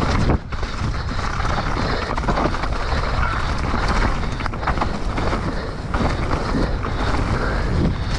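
Wind rushing over the microphone while a mountain bike rides a wet trail, with steady tyre noise and frequent rattling knocks from the bike over rough ground.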